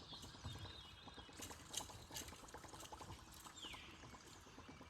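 Quiet river ambience: faint water trickling around the boat, a few light knocks about a second and a half in, and a short falling whistle near the end.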